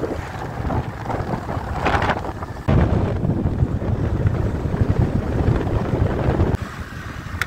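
Wind buffeting the microphone over the low rumble of a moving vehicle. It gets suddenly louder about two and a half seconds in and drops back just as suddenly near the end.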